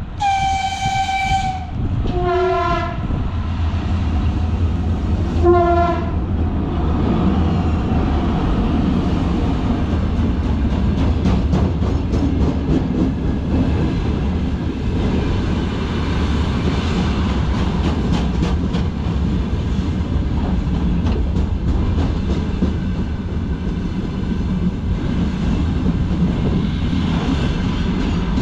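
VL11 electric locomotive sounding its horn: one long high blast, then two short lower blasts about three seconds apart. Then the freight train's open wagons roll past with a steady rumble and the clickety-clack of wheels over rail joints.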